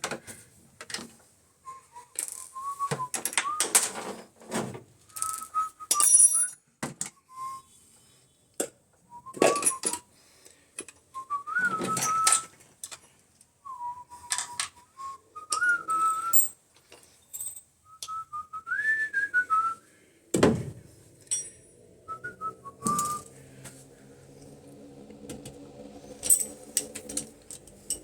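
A person whistling a tune in short wavering phrases, over frequent clicks and clatter of tools and parts being handled. About twenty seconds in comes a loud knock, followed by a low steady hum.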